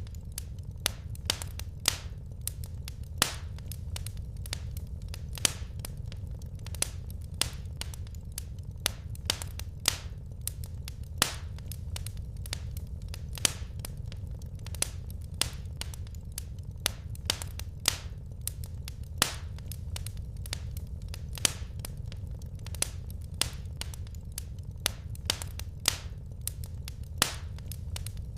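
Wood fire crackling in a fireplace: sharp pops and snaps at irregular spacing, a few a second, some much louder than the rest, over a steady low background noise of the burning.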